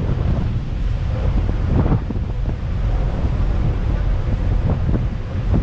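Strong wind buffeting the microphone on the deck of a moving ferry, with the rush of the sea and the boat's engine underneath.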